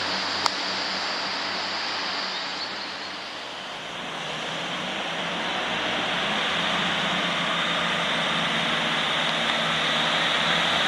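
Diesel multiple unit train running, its sound dipping a few seconds in and then swelling again, with a high steady whine in the second half. A single sharp click about half a second in.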